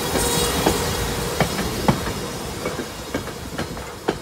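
SEPTA Silverliner IV electric railcar rolling past, its wheels giving a series of sharp clacks over the rail joints above a steady hum. The sound fades as the last car clears near the end.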